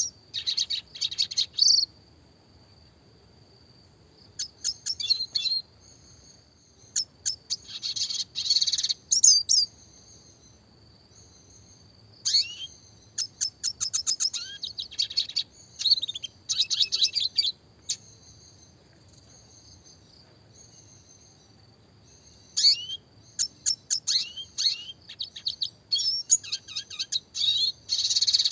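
Red siskin singing: rapid high twittering and trills mixed with quick sliding notes, in several bursts separated by pauses of a few seconds.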